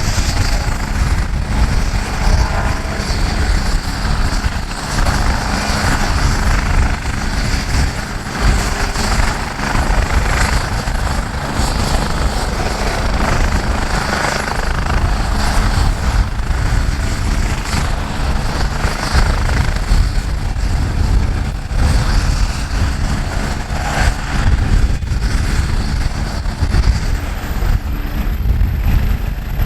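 AgustaWestland AW109S Grand New helicopter running, its twin turbines and rotors making a loud, steady noise with a heavy low rumble.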